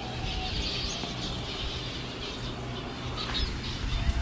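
Small cage birds chirping and twittering continuously in a busy aviary, with a low rumble underneath.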